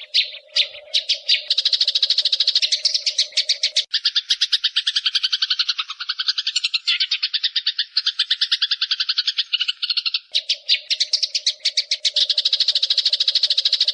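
Eurasian tree sparrows chattering in a fast, harsh run of chirps, about ten a second, as when fighting; in the middle stretch the chatter is denser, with a lower-pitched layer.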